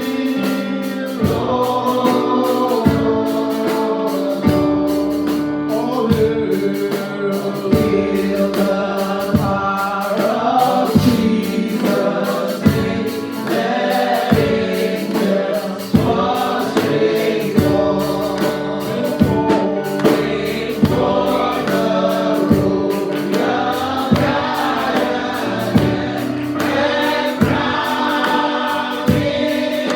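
Gospel choir singing a praise-and-worship song, backed by a band with a steady drum beat.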